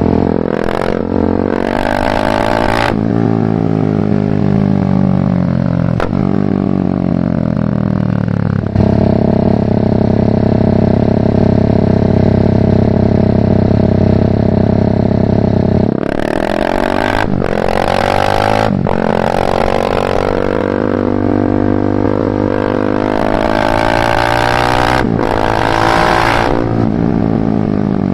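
BMW G310R's single-cylinder engine through a full Mivv exhaust, ridden on the road. It pulls up through a couple of gear changes, winds down, holds a steady note for about seven seconds in the middle, then accelerates hard through several more shifts before easing off near the end.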